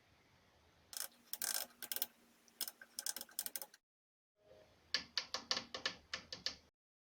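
Two short bursts of sharp mechanical clicks and ratchet-like rattles, the second a quick run of about six clicks a second; each cuts off suddenly.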